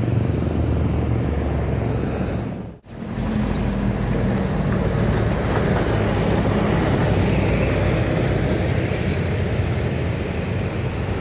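Road traffic, with a heavy truck's engine running low and steady as it passes. About three seconds in the sound cuts off abruptly and resumes as another passing vehicle.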